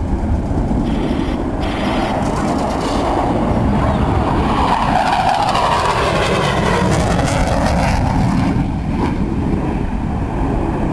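Engine noise of an airplane flying past at an airshow, steady and loud, swelling slightly in the middle of the pass.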